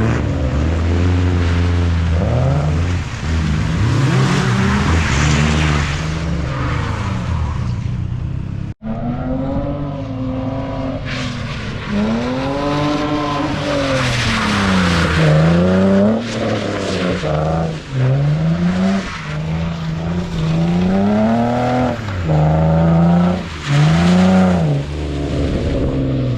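Drift car engine revving hard, its pitch climbing and dropping again and again as the throttle is worked through slides, over tyre noise. The sound breaks off for an instant about nine seconds in, then the revving carries on.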